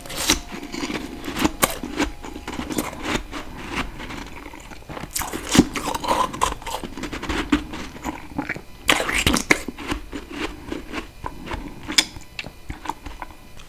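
A person biting and chewing freezer frost close to the microphone: crisp crunching and crackling that comes in several louder clusters of bites.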